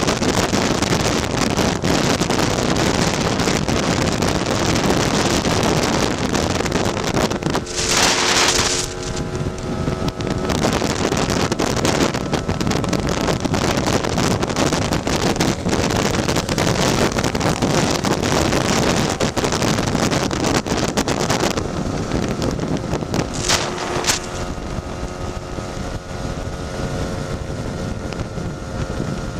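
Heavy wind buffeting the microphone over a tuned two-stroke Lambretta scooter engine running at road speed. The engine's pitched note comes through more clearly when the wind eases, around eight seconds in and over the last several seconds.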